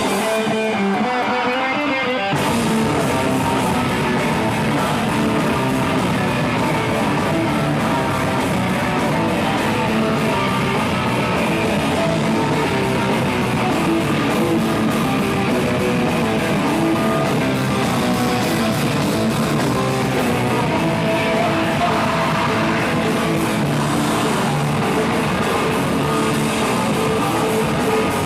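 Live rock band playing, with guitar and singing. For about the first two seconds the sound is thin, then the low end and cymbal range come in together and the full band plays on steadily.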